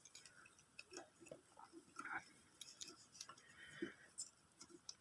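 Near silence with faint scattered clicks and small scrapes: hands handling and cutting the wires of a motorcycle charging connector.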